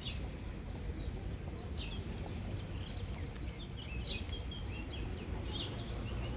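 Several birds chirping in short, quick notes over a steady low rumble.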